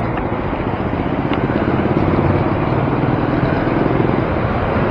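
Road traffic heard from a moving bicycle: a steady rush of wind and road noise with a motor vehicle engine running close by.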